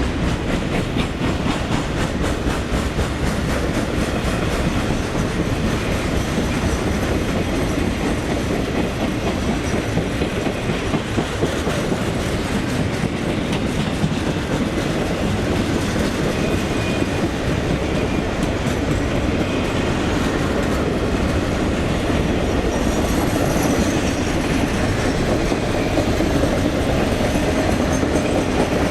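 Norfolk Southern Triple Crown RoadRailer train, highway trailers riding on rail bogies, rolling past: a steady rumble of steel wheels on rail with rapid clicking over the rail joints.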